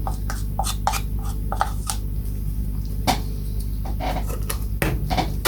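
Irregular light clicks and scrapes as water-based grain filler is measured out by hand, over a steady low hum.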